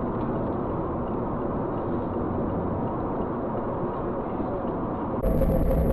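Steady road and engine noise inside a moving car, picked up by a dash cam. About five seconds in it changes abruptly to a louder, fuller road and engine drone with a steady low hum.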